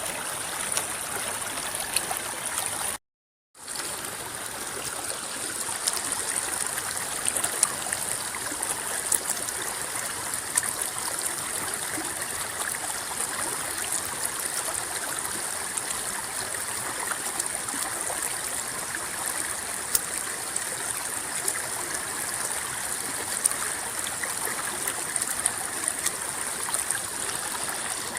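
Shallow river water rippling and gurgling steadily over rocks, with many small splashes. About three seconds in, the sound cuts out completely for about half a second, then fades back in.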